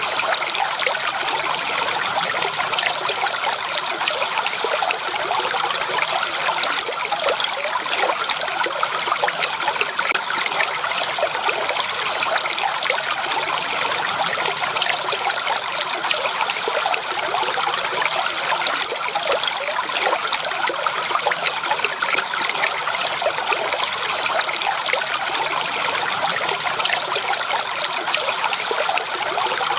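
Stream water flowing and trickling steadily, a continuous babbling hiss with fine splashy detail.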